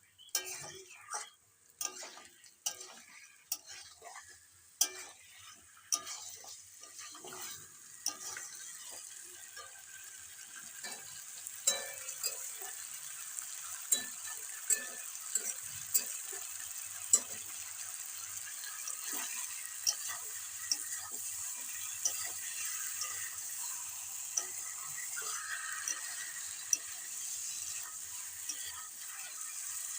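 Yogurt chicken frying down in mustard oil while it is stirred: a spatula knocks and scrapes against the pan, and a steady sizzle builds up after about eight seconds. It is the stage of cooking the meat until the oil separates.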